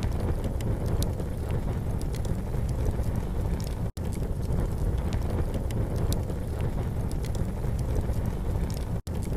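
Campfire burning, with scattered small crackles and pops over a steady low rumble. The sound cuts out for an instant twice, about four seconds and nine seconds in.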